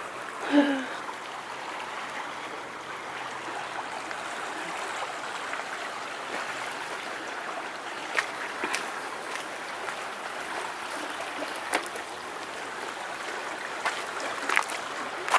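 A small creek flowing steadily, a continuous rushing of water, with a few short clicks in the second half.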